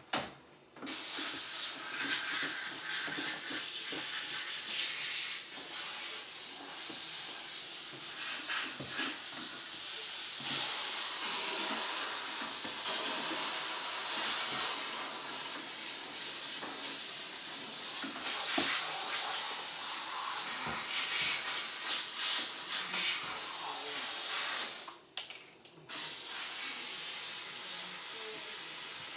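A steady hissing rush that breaks off for about a second near the end, then starts again.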